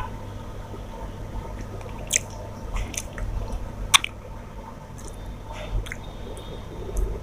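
A person chewing a mouthful of rice and curry, with wet squishy mouth sounds and a few sharp clicks. The sharpest click comes about four seconds in.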